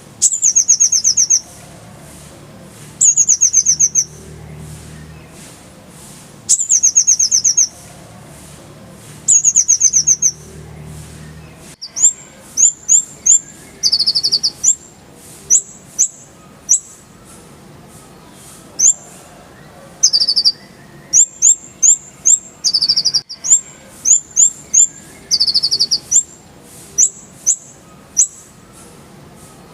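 Konin (kolibri ninja) sunbird singing. At first it gives four loud high trills of about a second each, some three seconds apart. About twelve seconds in it switches to quick runs of short, sharp, high chirps and brief trills.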